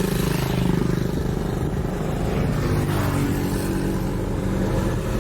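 Motor vehicle engine running steadily, its pitch shifting slightly, over a constant hiss.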